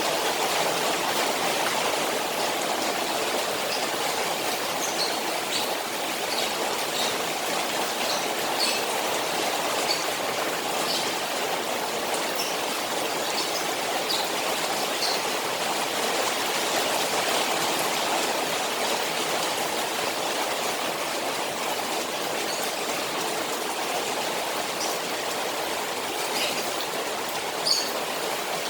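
Rain on a koi pond, with a steady wash of running water and scattered small drips and splashes over it.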